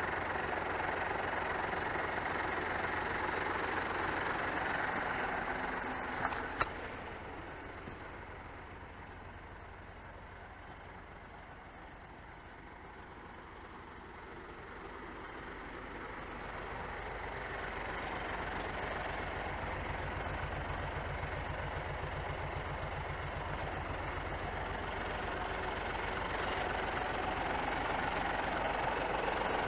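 Isuzu Giga truck's straight-six turbo diesel engine idling steadily and quietly. It grows fainter for several seconds in the middle, then comes back, with two sharp clicks about six seconds in.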